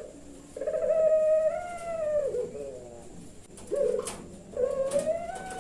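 Puter pelung dove cooing: a long drawn-out coo that holds its pitch and then slides down, a short coo, and another long coo starting near the end. A faint click about four seconds in.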